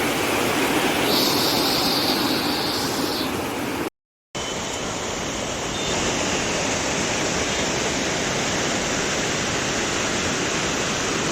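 Water rushing steadily over the rocks of a small river waterfall, broken by a short cut to silence about four seconds in.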